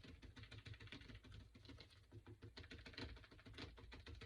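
Faint, rapid light ticking and scratching of a paintbrush working paint onto a wooden cutout.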